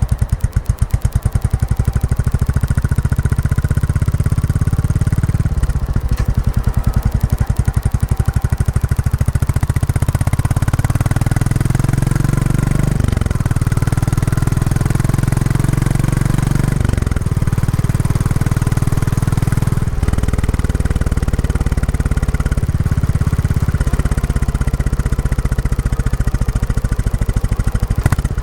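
Royal Enfield Classic 350's single-cylinder engine running through its stock exhaust while riding, a steady thumping pulse whose revs shift up and down in steps several times. The bike is being run in.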